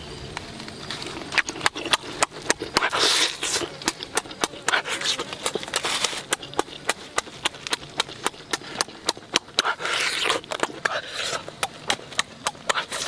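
Person eating cooked chicken with loud, wet lip-smacking chews, about three sharp smacks a second, with a few longer, noisier stretches in between.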